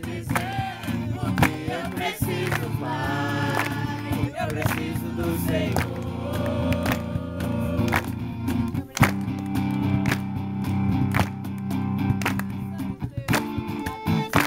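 Live worship music: voices singing over sustained instrumental chords with frequent sharp strummed or struck hits, the singing mostly in the first half.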